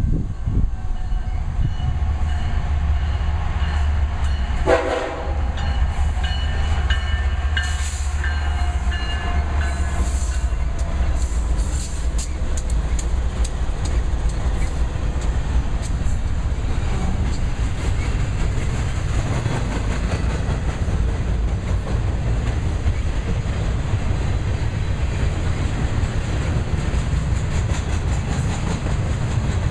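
Diesel freight trains hauled by GE ES44 locomotives passing close by, with a steady deep rumble throughout. A multi-tone horn sounds during roughly the first ten seconds, loudest about five seconds in. After that, the cars' wheels clatter over the rail joints.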